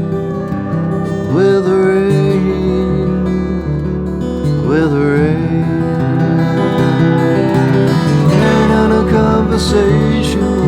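Acoustic guitar strummed in chords, the instrumental outro of a slow song after the last sung line.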